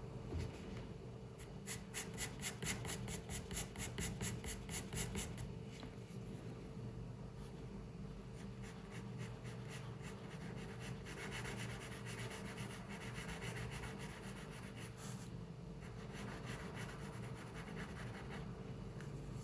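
Pencil scratching on paper in drawing strokes. A couple of seconds in comes a quick run of even back-and-forth strokes, about five a second, as in hatching or shading; softer, looser strokes follow later.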